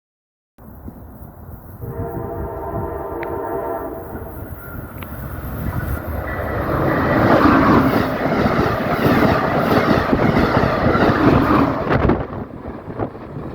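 A train sounding its horn for about two and a half seconds, then passing at speed, with the noise of the train on the rails building to a peak and dropping off sharply near the end.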